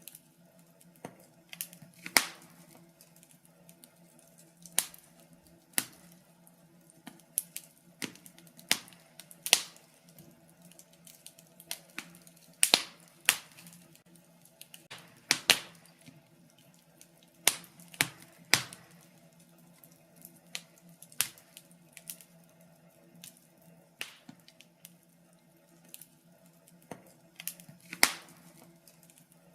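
Wood fire in a fireplace crackling, with irregular sharp pops and snaps, some loud, over a faint steady hum.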